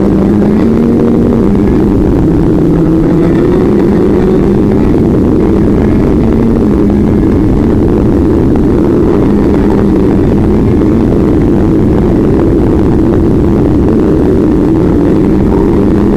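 A vehicle in motion: loud, steady running noise with a low hum that drifts slightly up and down in pitch.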